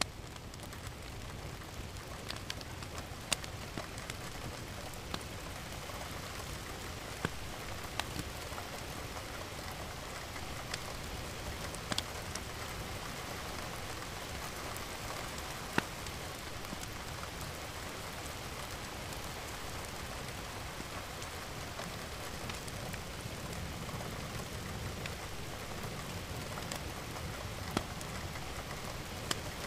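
Steady rain falling, an even hiss with scattered sharper drop hits, a handful of them standing out clearly.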